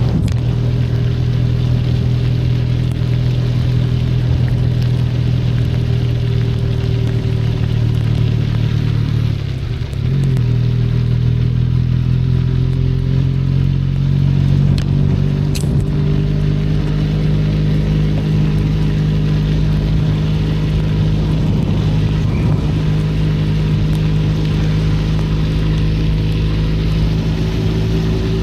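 Benelli Leoncino 500 Trail's parallel-twin engine running steadily under way, with a steady hiss of wind and road noise over it. About ten seconds in the engine note drops briefly, then picks up and holds again.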